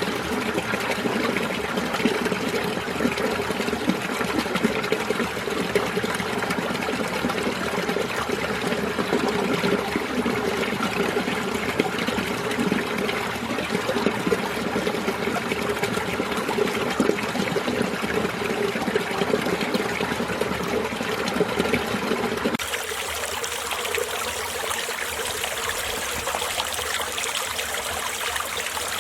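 Winter mountain stream flowing and trickling over rocks, a steady full rush of water. About three quarters of the way through it switches suddenly to a thinner, brighter trickle with less low rumble.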